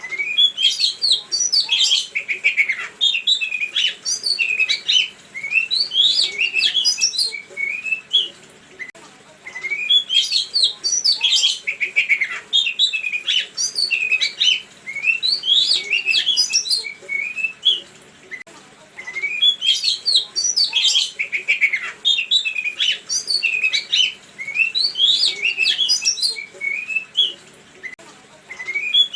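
A songbird's fast, varied song of chirps and whistles. It comes in bouts of about eight seconds, repeated three times with short pauses between them, like a looped lure recording.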